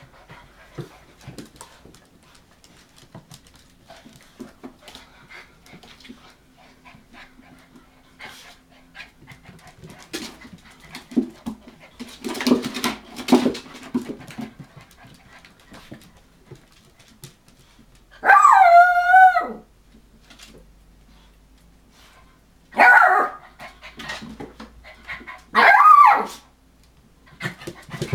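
Hokkaido dog puppies scuffling with scattered small clicks, then one drawn-out wavering whine about two-thirds of the way through and two short yelping barks near the end.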